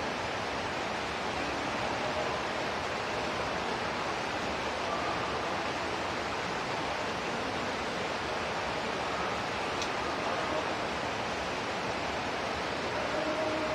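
Steady hiss of water falling like rain, a rain-water shower given to a caged white-rumped shama.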